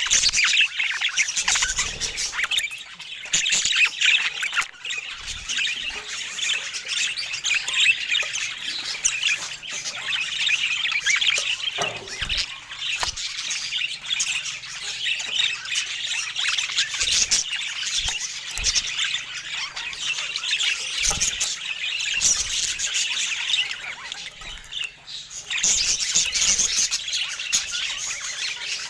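A group of budgerigars chattering and squawking continuously in dense, overlapping high chirps and warbles, with a few soft low knocks now and then.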